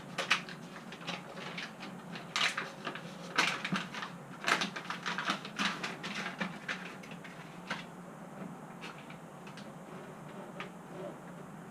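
Irregular knocks and clicks, several a second at first and thinning out after about eight seconds, from hands working sound-deadening mat onto the van's sheet-metal wall.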